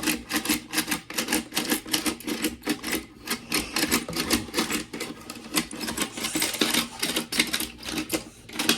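Rapid, irregular plastic clicking and clacking of Akedo battle-toy figures' punching mechanisms being worked by hand in a fight, several clicks a second.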